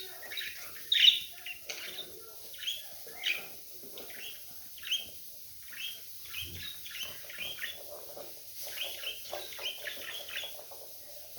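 Budgerigars chirping: a steady string of short, quick chirps with a fainter chatter beneath, the loudest chirp about a second in.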